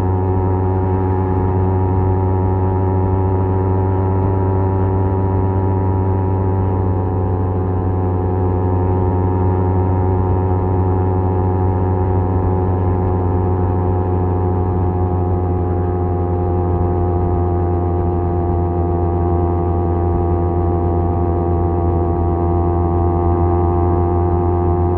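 Kawasaki Z250 parallel-twin engine through a SeaPro aftermarket muffler, cruising at a steady speed with an even, droning exhaust note that holds nearly the same pitch throughout.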